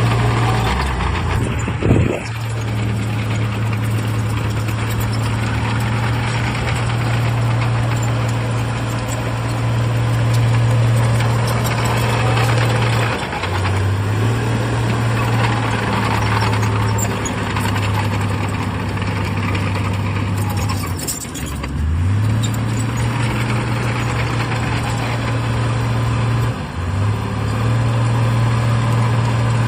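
Heavy diesel engine of earthmoving machinery running steadily, its pitch dropping briefly and picking up again a few times, with a sharp knock about two seconds in.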